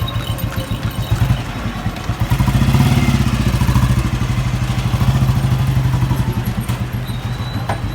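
Royal Enfield Bullet single-cylinder four-stroke engine running with an even thumping beat, revved up about two seconds in, held for a few seconds, then eased back. It is being run for a sound check after a cylinder head rebuild (new valve guides, seals and seats) and new piston rings.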